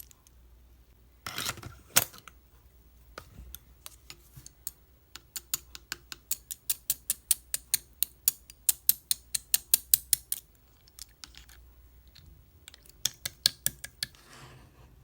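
Slime being pressed and worked by hand, giving crisp clicks and pops: a crackle about two seconds in, a steady run of about four clicks a second through the middle, and another short cluster near the end.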